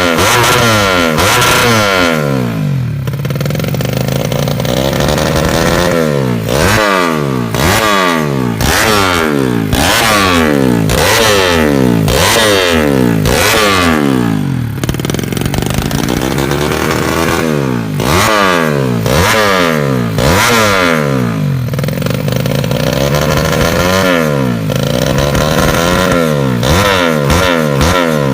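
Yamaha Jupiter 110 single-cylinder four-stroke engine, race-tuned to grasstrack rules for drag racing, revved hard over and over. Each blip of the throttle sends the pitch sharply up before it falls back, about once a second, with a few short steadier stretches between.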